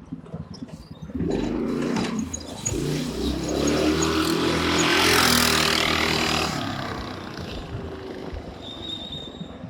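Go-kart with a 420cc Predator single-cylinder engine, governor removed, running at speed and passing by. It starts about a second in, gets louder to a peak about five seconds in, then fades away.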